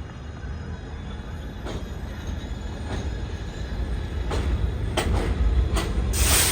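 New York City subway train approaching on the elevated line, its low rumble growing louder, with wheels clacking over rail joints and a loud high-pitched hiss or squeal near the end.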